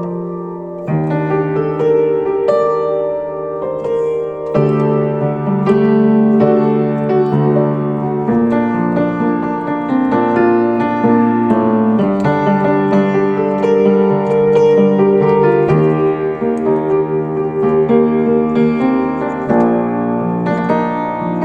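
Piano playing slow, sustained chords that change every second or two.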